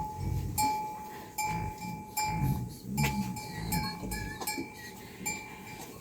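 Metal livestock bell clanking at an uneven beat, roughly once a second, as the animal wearing it moves. Each strike rings briefly with a clear tone.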